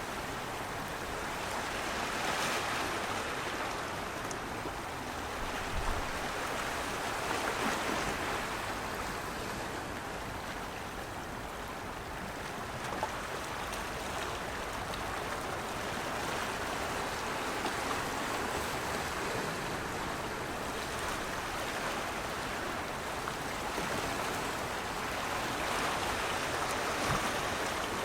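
Steady rushing of moving water, swelling and easing gently every several seconds.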